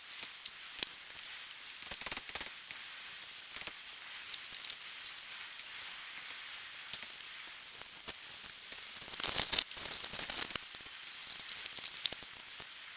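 Campfire sizzling and crackling: a steady high hiss with scattered sharp pops, thickening into a denser run of crackles about nine seconds in.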